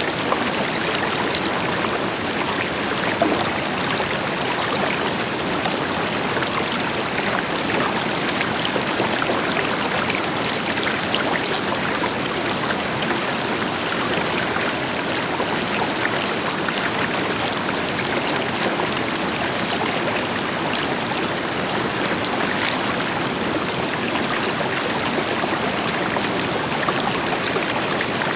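A river flowing steadily over rocks, an even rushing with fine splashing and trickling, with the deeper rush of a waterfall beneath it.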